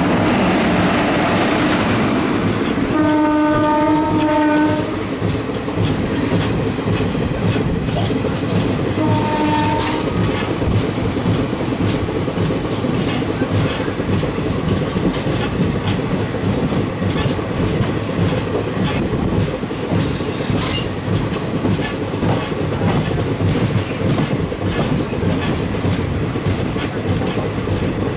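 Two trains passing each other on adjacent tracks: an oncoming WAP4 electric locomotive rushes past, then a locomotive horn sounds for about two seconds and again briefly a few seconds later. Coaches of the passing Duronto express follow, with a steady rumble and a regular clickety-clack of wheels over rail joints.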